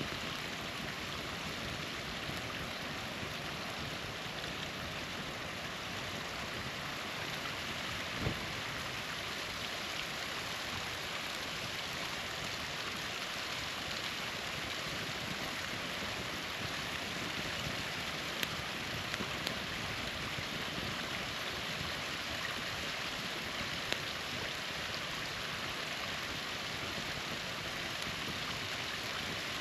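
Steady rush of a small waterfall, with a handful of single sharp pops from a wood campfire, the first about eight seconds in and a few more past the middle.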